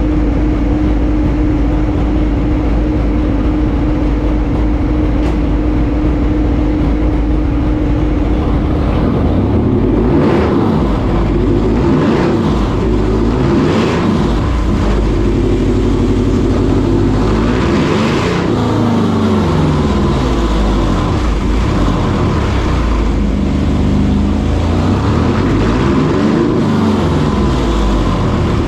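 S&S T143 big-inch V-twin in a Harley-Davidson Dyna running on a dyno under load: steady for the first nine seconds or so, then revved up and down again and again, with loud cooling fans blowing over the exhaust note. The new engine is being run in and tuned, kept to modest revs.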